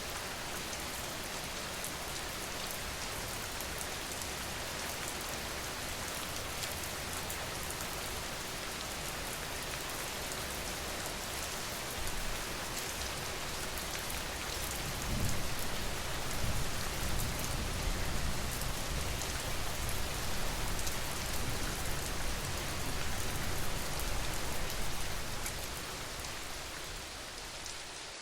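Steady rain falling on a surface, a dense even hiss of drops. A low rumble swells in from about halfway through and fades away near the end.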